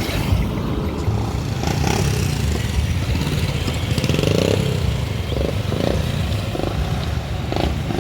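Street traffic, with motorcycle and vehicle engines running close by, and a few short pitched snatches of street noise in the middle.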